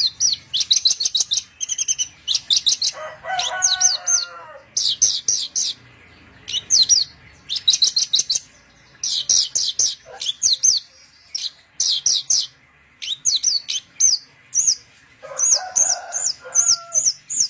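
Javan bushlark (branjangan) singing a fast song of rapid, high chirped notes in quick bursts separated by short pauses, with lower warbling phrases about three seconds in and again near the end.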